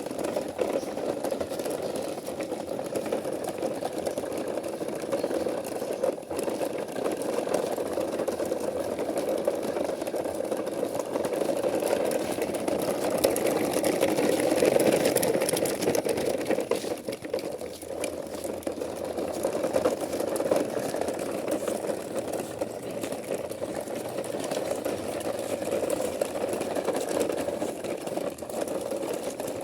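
Small electric motor of a toy truck running steadily with an even whirring hum, swelling slightly about halfway through.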